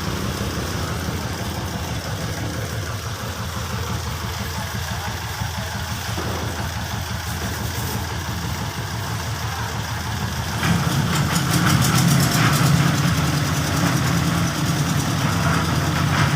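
A small engine running steadily with a low, fast-pulsing hum, driving a bored-pile concreting rig. About two-thirds of the way through it grows louder and a rattling clatter joins it.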